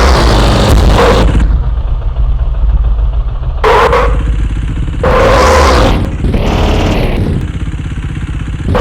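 KTM Duke 390's single-cylinder engine revved hard, dropping back to a lower run, then blipped up three more times in short bursts.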